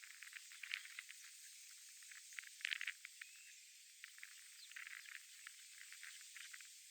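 Faint outdoor pond-side ambience of many short bird chirps and clicky calls over a steady hiss, with a louder cluster of calls about two and a half seconds in.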